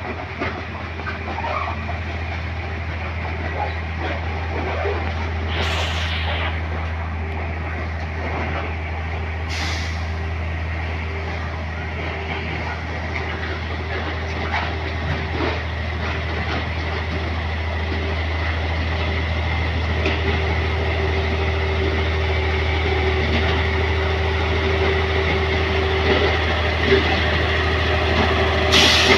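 A train's diesel engine running steadily with a low hum, with three short, sharp hisses of air about six seconds in, about nine and a half seconds in and near the end. The engine grows a little louder in the second half.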